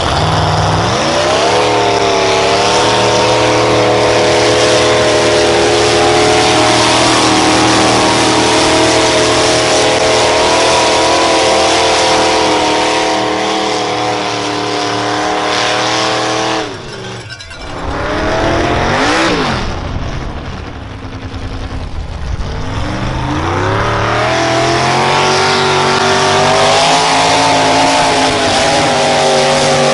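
Pulling vehicle's engine held at high revs as it pulls a weight sled, then dropping off abruptly about seventeen seconds in. It is blipped once, then revved up again and held high.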